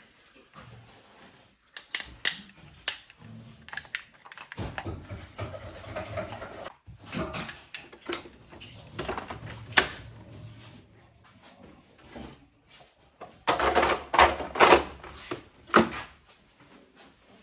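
Irregular clicks, knocks and rattles of the plastic and metal parts of a DeLonghi ESAM 5600 coffee machine being handled and worked on, with a denser, louder clatter near the end.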